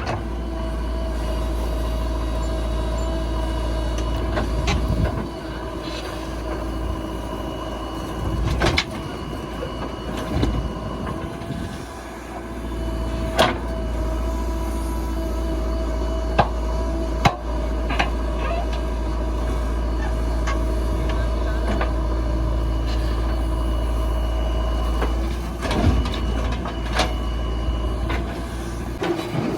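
JCB 3DX backhoe loader's diesel engine running steadily, with a few sharp clanks and knocks from the machine at work.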